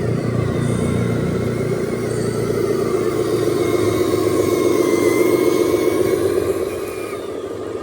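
Radio-controlled dump truck driving, its motor and gearbox whining with a wavering pitch that builds toward the middle and eases off about seven seconds in.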